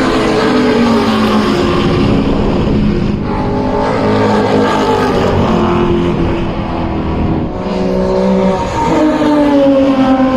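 Historic muscle car's racing engine heard on board under hard driving, pitch dropping at first and then climbing through the gears, with short breaks at the gear changes about three and seven and a half seconds in.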